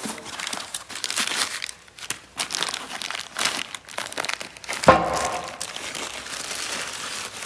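Packaging being torn open and crinkled by hand: an irregular run of rustles, crackles and rips as new parts are unwrapped.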